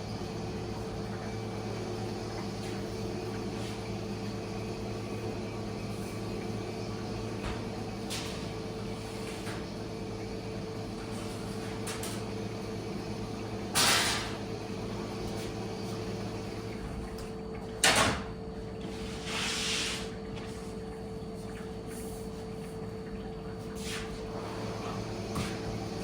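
Steady machine hum made of several fixed tones. About halfway through it is broken by a short, loud noisy burst; a few seconds later comes a sharp knock, then a brief rush of noise.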